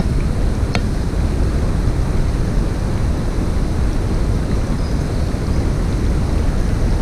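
Steady rush of a mountain stream's flowing water, an even noise with a single short click about a second in.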